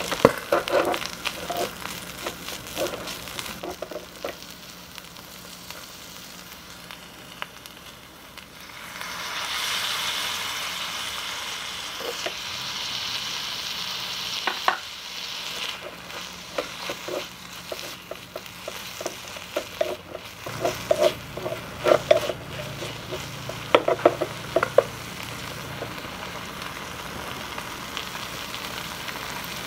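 Sardine sauté sizzling in a miniature aluminium wok while a small wooden spatula stirs and scrapes it. The sizzling swells loudly about nine seconds in, when chopped tomatoes go in, and eases back after about sixteen seconds. The spatula clicks and scrapes against the pan come thickest near the end.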